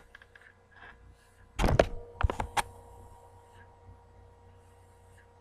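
Handling knocks from working stitches on a knitting loom: a dull thunk about one and a half seconds in, then two sharp clicks. A faint steady hum follows.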